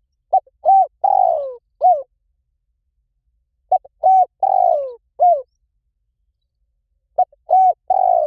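Spotted dove cooing: a phrase of a short note, two arched coos, a long falling coo and a final coo. The phrase repeats about every three and a half seconds, twice in full, with the third starting near the end.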